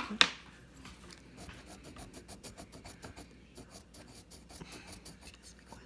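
Quick strokes of a drawing tool scratching across paper, many short scrapes in a row as a picture is sketched and shaded. A single sharp knock comes just after the start.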